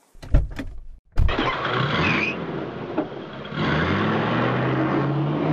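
Two thumps, then a car engine starts up and runs. About three and a half seconds in, its pitch rises as it speeds up.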